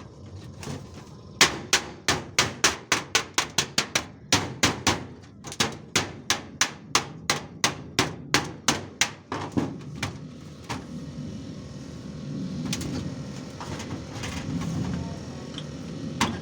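A hammer striking repeatedly and quickly, about three to four blows a second with two short breaks, for about eight seconds, then stopping.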